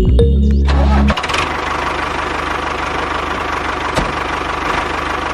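Background music ends about a second in and a small electric motor of a homemade miniature machine takes over, running steadily with a fast, dense rattle. A single click sounds about four seconds in.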